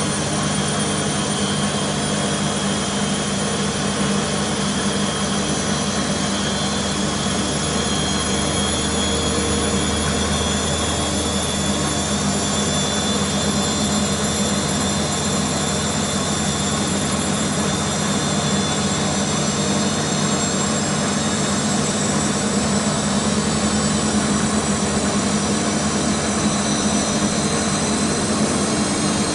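Beko WMB 51441 front-loading washing machine spinning at high speed in its spin cycle, a steady motor-and-drum hum with a high, even whine.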